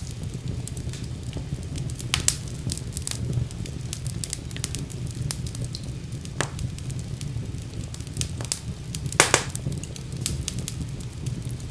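Wood fire burning in a fireplace, with a steady low rumble and irregular crackles and pops; the loudest pops come about two seconds in and near the end.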